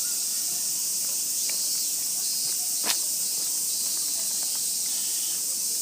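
Steady high-pitched chorus of summer cicadas, with one sharp click about three seconds in.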